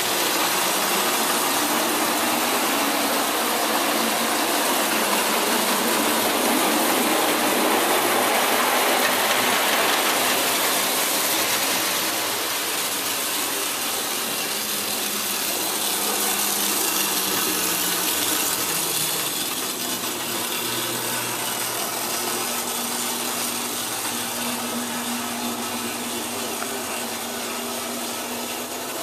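French Hornby tinplate electric toy locomotive with a 20-volt motor running on track: a steady whir and clatter of motor, gears and wheels on rail.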